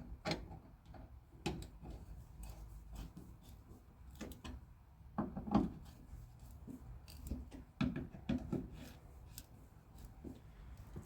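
Scattered clicks and light knocks of hand tools working on a car door's strike plate, being adjusted outward so the door closes flush, with a couple of heavier knocks in the middle.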